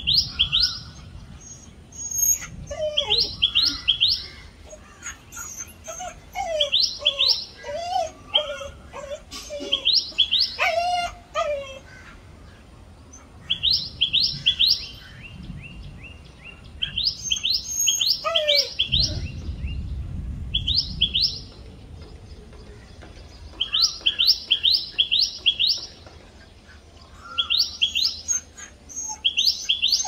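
Common tailorbird calling: loud bursts of three to five quick, sharp, high notes, repeated every few seconds. Softer, lower calls from other birds come in between.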